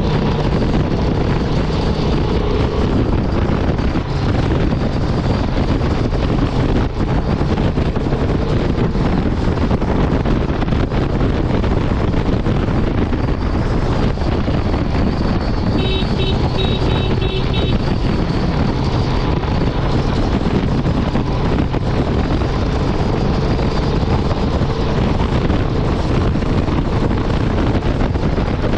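Honda Transalp 750's parallel-twin engine running steadily at highway cruising speed, buried under heavy wind rush on the microphone. A brief run of short high beeps sounds about 16 seconds in.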